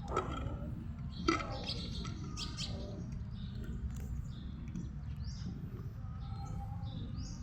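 Small birds chirping, many short high calls, over a steady low background rumble, with two sharp clicks in the first second and a half.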